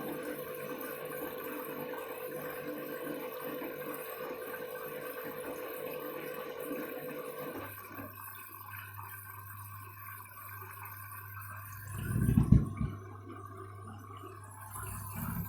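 Candy front-loading washing machine taking in water for its first rinse: a steady rush of inflowing water with a humming tone, which cuts off about halfway through. A low motor hum follows, with two louder low thumps from the drum near the end.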